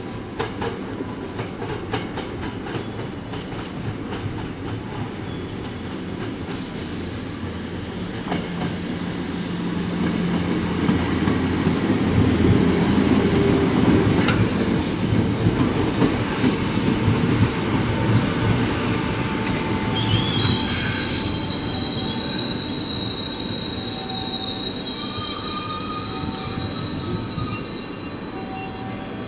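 Sanyo Electric Railway 3000-series electric train running into the station: the rumble and clatter of its wheels on the rails grow louder as it passes close. About two-thirds of the way through a high, steady squeal sets in and holds as the train slows to a stop.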